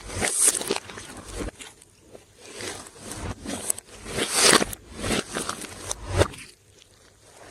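Glossy slime being squished and stretched by hand, with sticky crackles, small pops and squelches coming in uneven bursts, loudest a little past halfway through.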